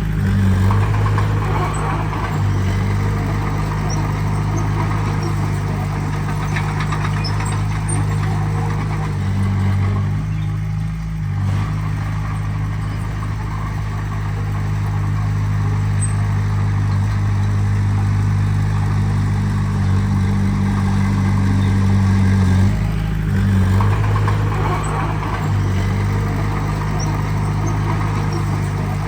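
Heavy diesel engine of earthmoving equipment running steadily at low engine speed. Its pitch shifts briefly about a third of the way in and again near the three-quarter mark.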